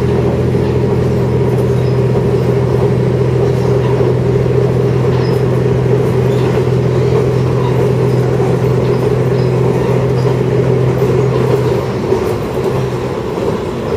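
Diesel railcar running at speed, heard from inside the carriage: a steady low engine drone over the rumble of the wheels and track. The drone drops away about twelve seconds in.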